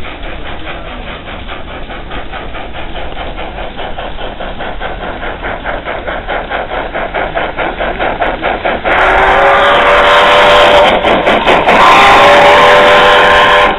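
A full-size train passing close by: a rhythmic clatter of wheels that grows steadily louder, then two long, loud blasts of a multi-tone horn, the first about nine seconds in and the second just after it.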